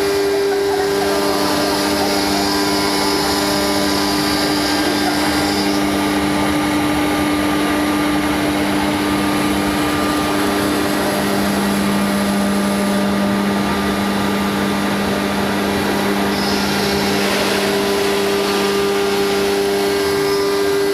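CNC wood router running steadily as it cuts wood, a constant machine drone with several steady hum tones under a broad hiss.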